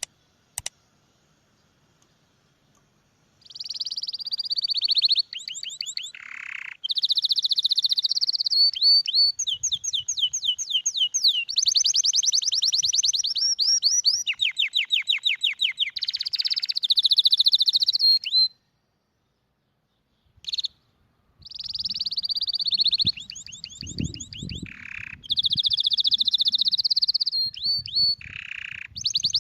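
Domestic canary singing long phrases of rapid trills and rolling repeated notes, the kind of tutor song played to young canaries. Two short clicks come right at the start, and the song breaks off for about two seconds in the middle before going on.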